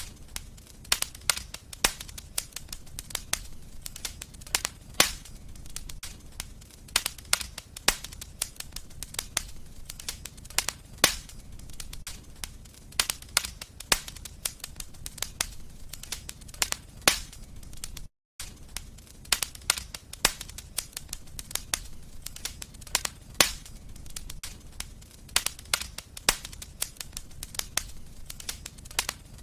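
Fireplace wood fire crackling: irregular sharp pops and snaps, a few louder ones among many small ones, over a low steady rumble of the flames. The sound cuts out for a moment about eighteen seconds in.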